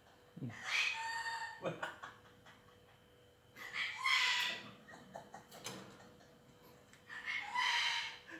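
Hill myna giving three loud, harsh calls about three and a half seconds apart.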